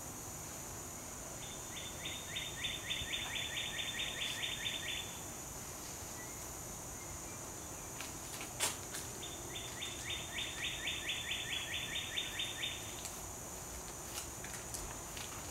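Outdoor ambience: a bird sings two long trills of rapid repeated notes, about six a second, each lasting about three and a half seconds, one early and one after the middle. Under them is a steady high hum, and there is a single sharp click a little past halfway.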